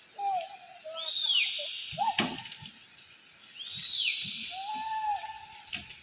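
Birds calling in wet forest: two similar high calls about two and a half seconds apart, each sliding down in pitch, with short lower whistled notes between them. There is a sharp click about two seconds in.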